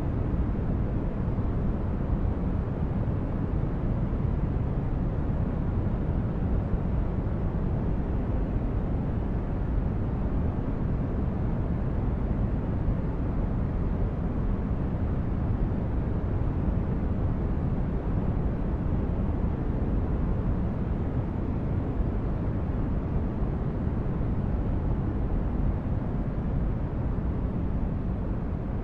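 Steady, unbroken white noise for sleep and relaxation, weighted toward the low end so it sounds deep and rushing, with no tones, clicks or changes.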